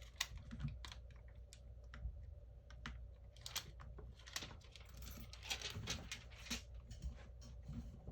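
Faint, irregular light clicks and taps of a smartphone and small hard parts being handled on a workbench, a few clustering about three and a half, four and a half, and six seconds in.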